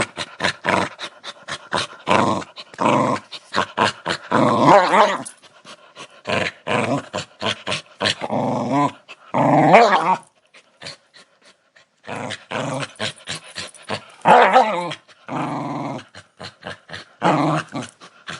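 Dog growling in repeated rough bursts separated by short gaps, with a pause of about a second and a half just past the middle.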